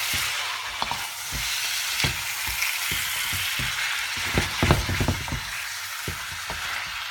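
Chicken pieces with onions and ginger garlic paste sizzling in a hot wok as a wooden spatula stirs them, knocking and scraping against the pan. The knocks come thickest and loudest about four to five seconds in.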